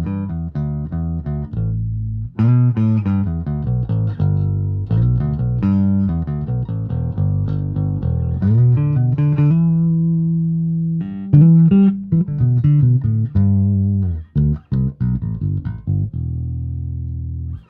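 Electric bass, a Gibson Thunderbird with Lollar pickups and stainless steel strings, playing a plucked riff of quick notes with a few held ones, each note with a compressed-sounding attack.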